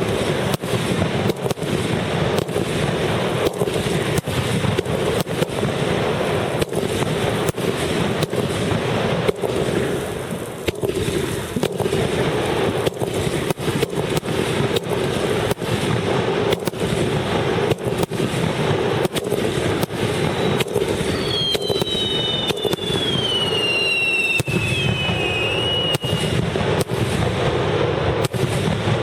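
Fireworks display at a rapid, unbroken barrage of bursts and crackles. In the second half a few whistling shells give falling whistles.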